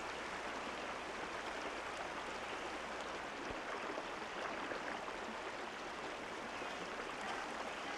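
Steady rush of flowing water, like a stream or small waterfall running.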